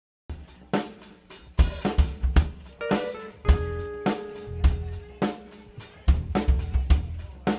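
A live band starts an instrumental intro suddenly a moment in: drum kit with kick, snare, hi-hat and cymbals over a heavy bass line, with a held keyboard-like chord in the middle.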